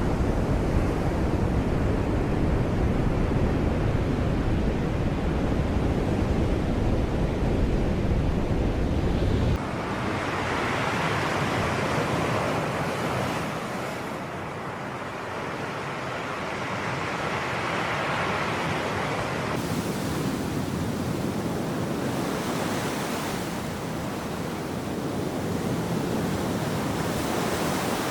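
Sea waves washing onto the shore, swelling and fading every few seconds. Heavy wind rumble on the microphone covers the first third and cuts off abruptly.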